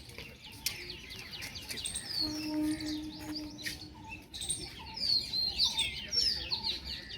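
Small birds chirping and twittering together, a dense overlapping run of short high calls that swoop up and down, busiest and loudest in the last couple of seconds.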